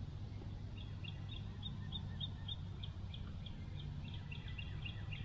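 A bird calling in a quick series of short, high chirps, about three or four a second, that begins just under a second in, over a steady low background hum.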